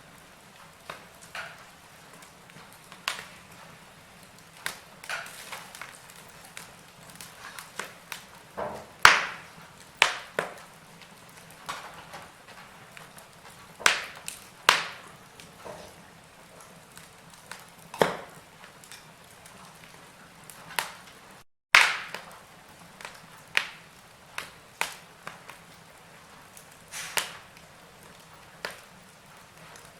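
Wood fire in a fireplace crackling: irregular sharp pops and snaps of burning logs over a faint low hiss. The sound drops out for a split second about two-thirds of the way through.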